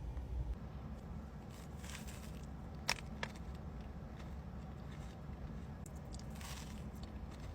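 Crunchy food being bitten and chewed close to the microphone: a couple of crunches and one sharp click about three seconds in, over a low steady hum.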